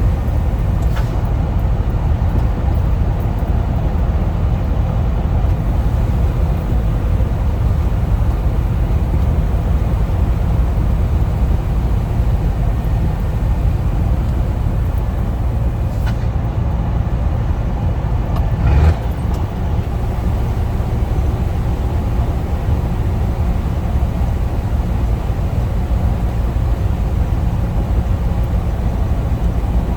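Scania truck's diesel engine running steadily through a straight-through exhaust, a deep constant drone. A brief knock comes a little past halfway.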